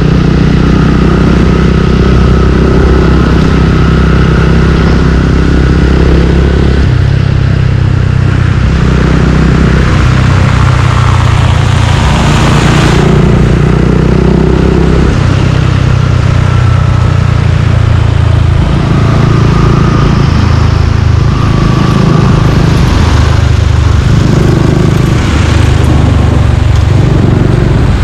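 Suzuki Gixxer 155's single-cylinder engine running through an aftermarket Yoshimura exhaust while riding in street traffic, its note stepping up and down every few seconds with throttle and gear changes.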